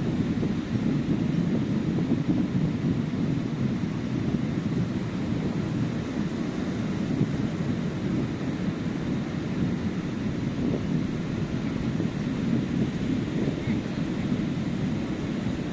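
Ocean surf washing onto a beach as a steady low wash of noise, with wind buffeting the microphone.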